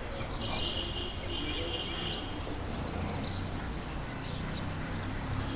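Outdoor ambience: a steady high-pitched insect drone, like crickets, with scattered short bird chirps and a brief trill about half a second in, over a low background rumble.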